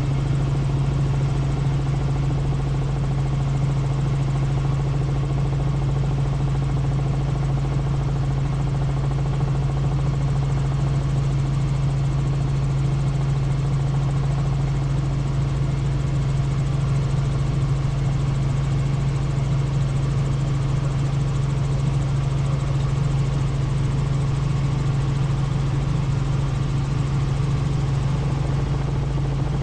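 Helicopter in flight, heard from on board: a steady engine and rotor drone with a strong low hum that stays constant throughout.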